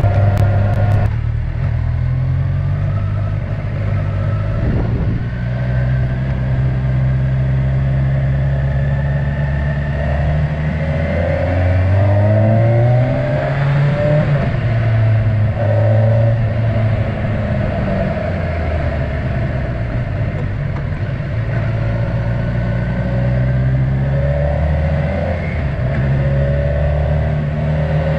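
Kawasaki Versys 1000's inline-four engine running at road speed under the rider. Its pitch rises and falls several times as the throttle opens and closes and it shifts gear.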